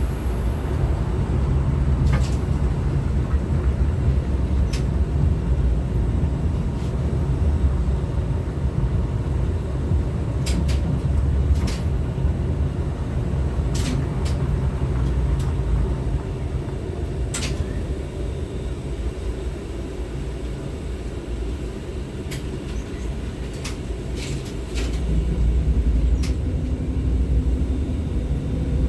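LVS-86K tram running between stops, heard from inside the passenger saloon: a steady low rumble of wheels and running gear with scattered sharp clicks and knocks. The rumble eases off for a while in the second half, then grows louder again near the end.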